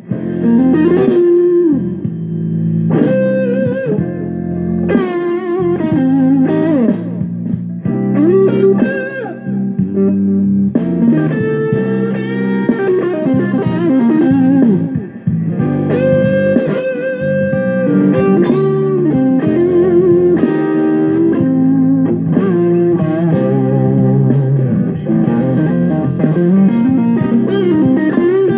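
Electric guitar lead lines with string bends, played through a ported Fender Rumble 15 V3 bass combo amp, over a jam track coming through the same amp's aux input.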